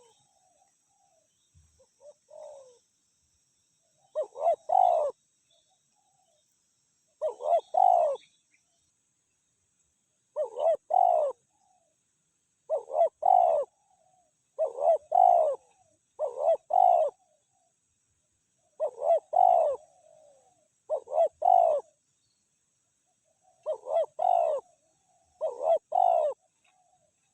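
Spotted dove cooing: short phrases of two or three quick notes, repeated about every two seconds. The calling of a decoy male in a trapping session that answers a wild male.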